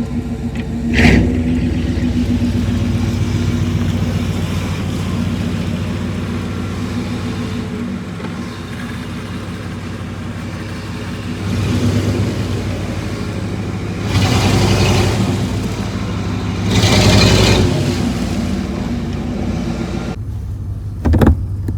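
Chevrolet pickup truck engine running through its exhaust, a steady drone that swells louder three times in the second half as it is revved or accelerated. There is a short sharp knock about a second in and another near the end.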